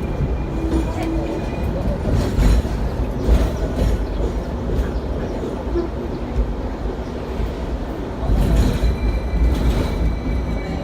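Hong Kong double-decker tram running, heard from on board: a steady low rumble of steel wheels on the rails, with clatter about two seconds in and again near the end, and a faint high squeal near the end.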